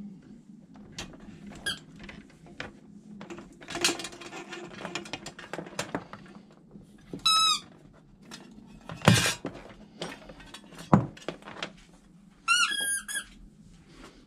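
Hands-on fitting work: scattered clicks, clatter and knocks, with two loud sharp knocks in the second half. Two short, high squeaks stand out, one about halfway and a longer, wavering one near the end.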